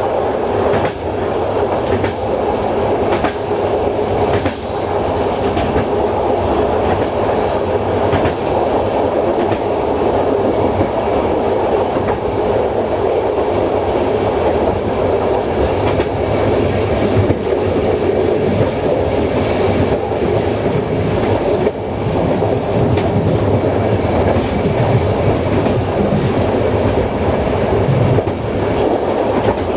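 Passenger train's rear coach running at speed: steady wheel-on-rail rumble with occasional clicks as the wheels pass over the track.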